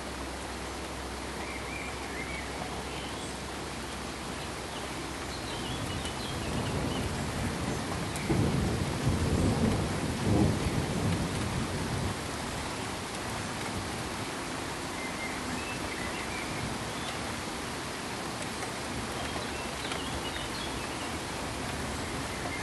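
A low roll of thunder swells up over a steady pink-noise hiss, loudest about a third of the way in, then dies away after a few seconds. Faint high chirps come and go.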